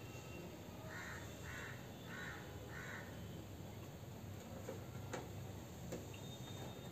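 A bird calling four times in quick succession, faintly, with a few light clicks from hands handling cables inside a computer case a little later.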